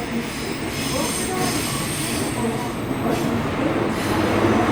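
Tokyo Metro 17000 series subway train running through the tunnel, heard from inside the car: steady rumble of wheels on rail with a thin high wheel squeal, growing louder toward the end.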